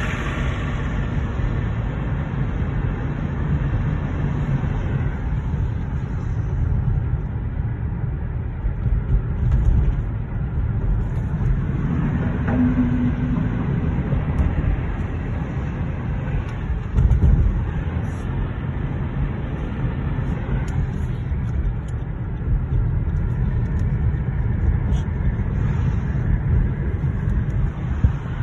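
A car driving, its engine and tyres making a steady low rumble, with a couple of brief louder bumps.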